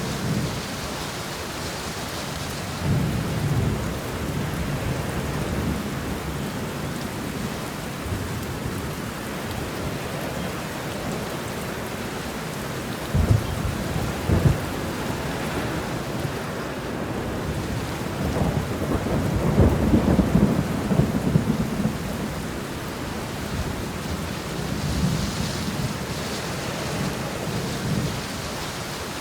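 Steady rain falling, with thunder rumbling low several times. There are two short sharp thumps near the middle, and the longest, loudest rumble comes about two-thirds of the way through.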